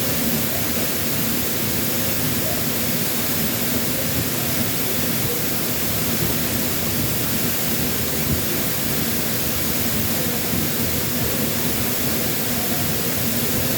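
Waterfall pouring steadily in a dense, unbroken rush of water noise, its flow swollen after a typhoon.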